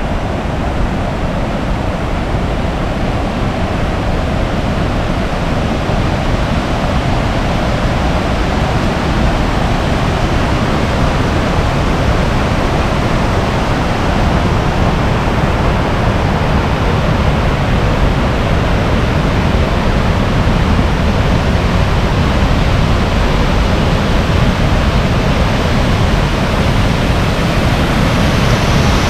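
Waterfall rushing, a loud steady wash of falling water that grows slightly louder towards the end.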